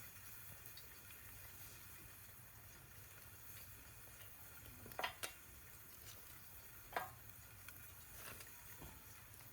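Faint steady sizzling of steak on an iron griddle over a campfire, with a few sharp crackles or clicks, the loudest about five and seven seconds in.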